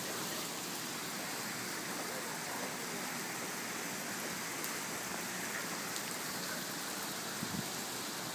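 Heavy rain falling steadily, an even hiss of downpour on surfaces.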